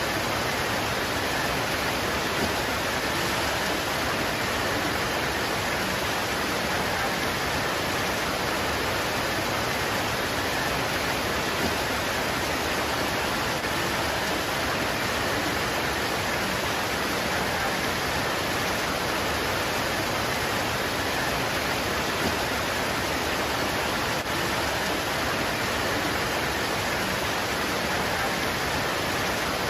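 Steady heavy rain pouring onto leaves, an even unbroken hiss with no single drops standing out.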